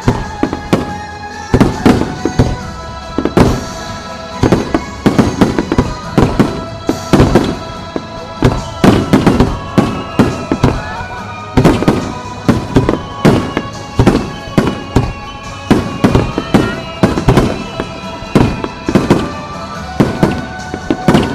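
Aerial firework shells bursting in quick succession, about two sharp bangs a second with overlapping echoes, over a musical soundtrack with held notes.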